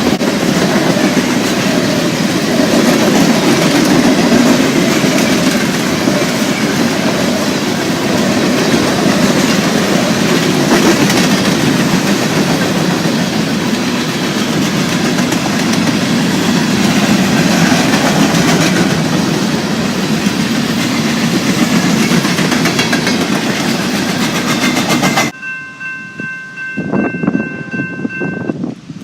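Train rolling past close by, with steady wheel clatter and rumble over the rails. It cuts off abruptly near the end, and a train horn sounds a chord of several steady notes.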